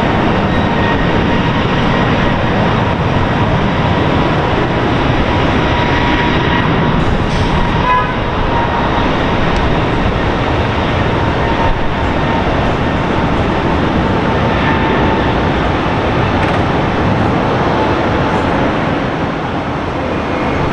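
Jet airliner engines running: a loud, steady rumble with a faint high whine.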